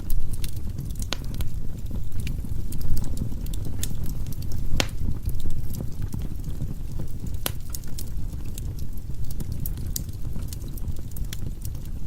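Wood fire burning in a fireplace: a steady low rumble of the flames with irregular sharp crackles and pops from the burning logs, a few louder pops among them.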